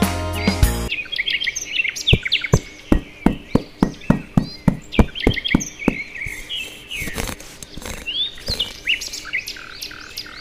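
Birds chirping and tweeting throughout. From about one to six seconds in there is a quick, even run of taps about three a second, from a small steel trowel working a sand floor.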